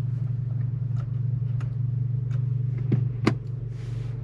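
Audi S3 8V's 2.0-litre turbocharged four-cylinder idling steadily, heard from inside the cabin, with a few light clicks and a short rustle near the end.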